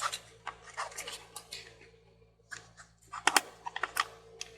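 Hands handling a small plastic toy figure and its parts: a string of light clicks and scratchy rubbing, with a short lull about two seconds in and a run of sharper clicks past the three-second mark.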